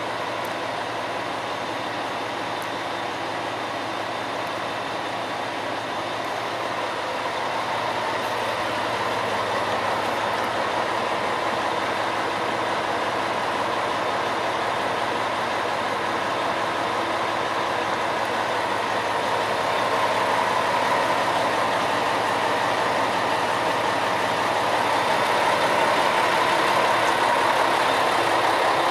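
Diesel railcar engine idling steadily, growing a little louder in two steps partway through.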